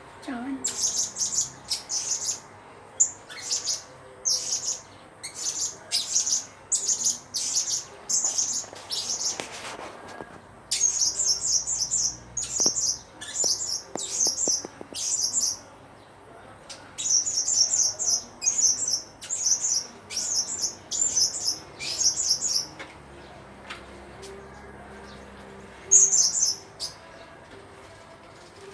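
Blue-crowned hanging parrot (serindit) chirping. It gives quick runs of shrill, high chirps, each run about a second long, with short gaps between runs, two longer pauses, and a final brief call near the end.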